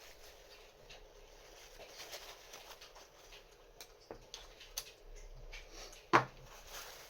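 Small parts of a combination safe lock being handled on a bench: light clicks and taps as wheels and spacers are moved, with one sharp clack about six seconds in as a part is set down.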